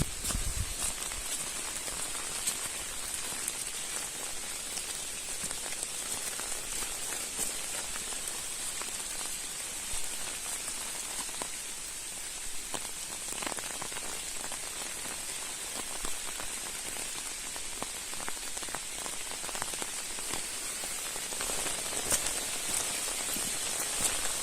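Steady rain falling: a constant hiss with scattered ticks of individual drops.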